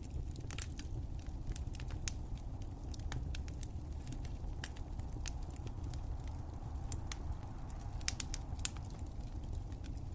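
Wood fire crackling: irregular sharp pops and snaps over a steady low rumble, with a small cluster of louder pops near the end.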